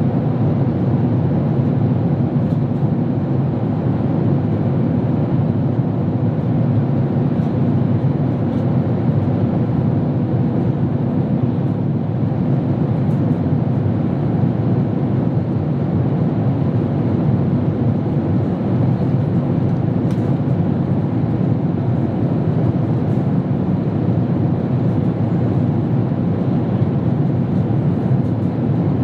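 Steady cabin noise of a Boeing 767-300 airliner in flight: an even, low drone of engines and rushing air heard from an economy seat, with no change throughout.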